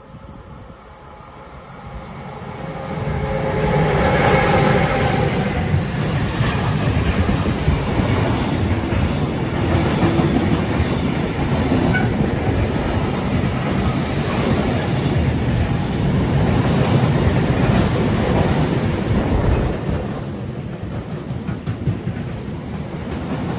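Intermodal freight train passing close by: the noise builds over the first few seconds as the locomotive arrives, with a brief whine, then the steady rumble and clatter of the wagons on the rails.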